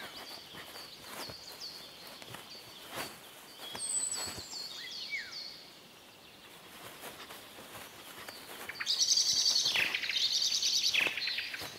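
Songbirds singing in woodland: a series of short, falling high notes, then a loud, rapid high trill about nine seconds in, with a few faint clicks and rustles underneath.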